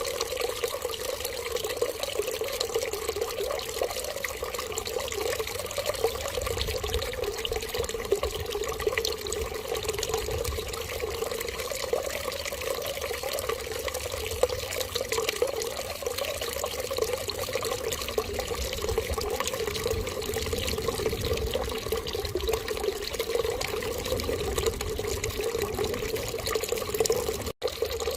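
Water running steadily in an unbroken trickling stream, with an even tone throughout. It cuts out for an instant near the end and carries straight on, as at the join of a looped recording.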